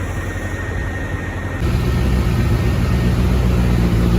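A motor vehicle engine idling with a steady low rumble, becoming louder and fuller about one and a half seconds in.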